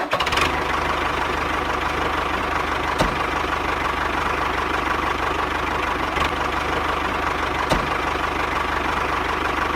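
Small motor running steadily with a continuous hum, with a few faint clicks about 3, 6 and 8 seconds in.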